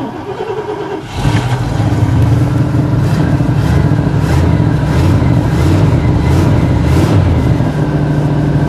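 Carbureted Oldsmobile 307 V8 in a Chevy Caprice wagon being restarted in sub-zero cold: the starter cranks for about a second, then the engine catches and runs rough with surging revs, settling to a steadier idle near the end.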